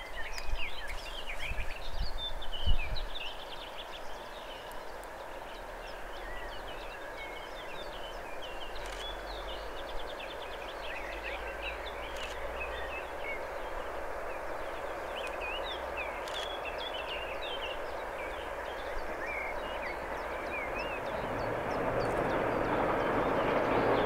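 Birds chirping over the distant rumble of a Siemens Eurorunner ER20CF diesel locomotive and its freight train, which grows steadily louder over the last few seconds as the train approaches. A few low thumps in the first three seconds.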